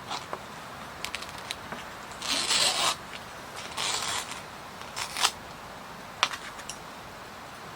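Things being handled over a steady hiss of rain: two short rasping scrapes, about two and four seconds in, with scattered clicks and taps around them.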